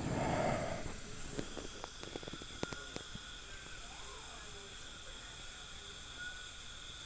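Dental instruments working in the mouth: a short hissing burst, then a run of light sharp clicks about two seconds in, over a faint steady high whine.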